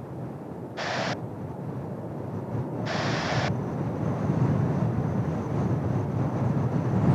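Distant jet engine rumble from the Blue Impulse formation's Kawasaki T-4 jets, growing gradually louder. Two short bursts of hiss cut in about a second in and again about three seconds in.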